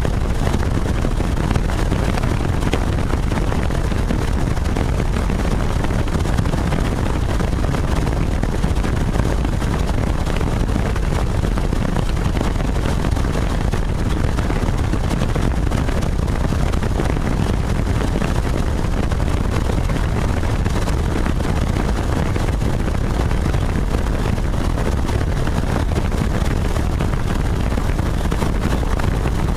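Helicopter in flight: a loud, steady rotor and engine noise.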